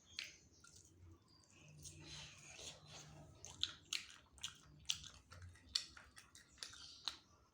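Close-up mouth sounds of a person eating chicken wings: chewing with a rapid run of sharp, wet lip smacks in the second half.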